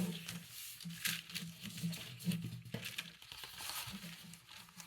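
Paper rustling and crinkling as sheets are handled, in uneven small scrapes and rustles.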